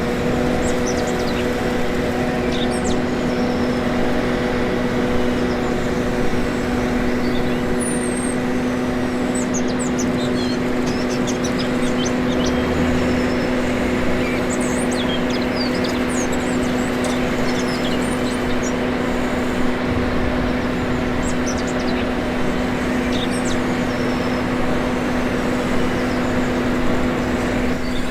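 Remote-control construction machines, a 1/14-scale excavator and articulated hauler, running with a steady hum of several held tones over a constant rushing noise. Birds chirp now and then.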